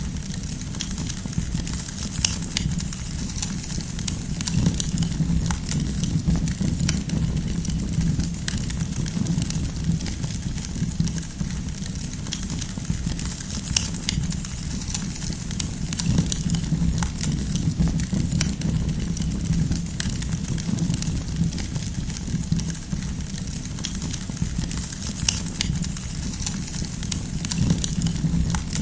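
Wood campfire burning, with irregular sharp crackles and pops of the firewood over a steady low rumble.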